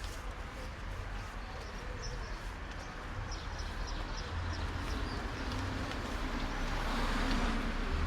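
Urban street ambience on a walk: footsteps over a low traffic rumble, a few short high chirps in the middle, and a vehicle passing that swells to its loudest near the end.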